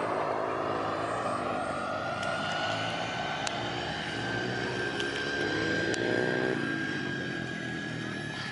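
KingTech K80 model jet turbine of a flying RC jet, a steady high whine over a rushing rumble. The whine rises slowly in pitch and grows fainter toward the end as the jet moves away.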